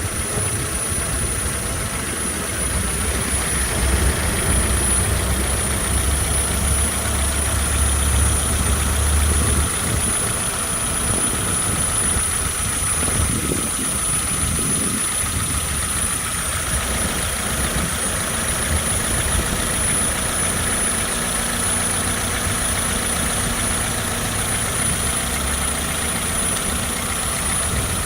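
First-generation Toyota Vitz engine running steadily, a low rumble that is strongest for the first ten seconds or so and then eases, with a thin steady high whine throughout.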